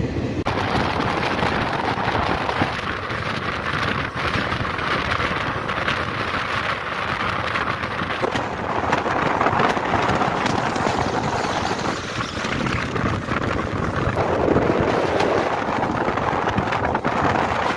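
Inside a moving Indian Railways ICF passenger coach: the steady rumble and hiss of the wheels running over the track, with wind rushing past the open door or window.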